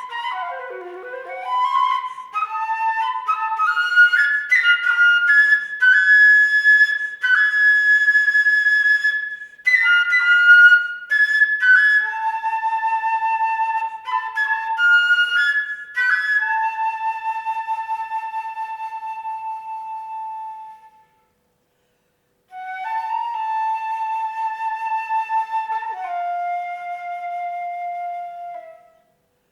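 Unaccompanied concert flute playing a melodic solo passage: quick runs of notes, then long held notes, a short silent pause past the middle, and a final phrase that settles on a lower held note.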